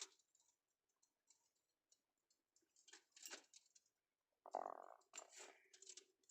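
Near silence, with a few faint short clicks and one brief, soft sound about four and a half seconds in.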